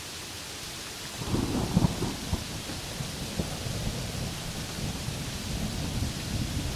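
Steady rain hiss, with thunder breaking in about a second in: a loud crackling clap that rolls on as a low, uneven rumble.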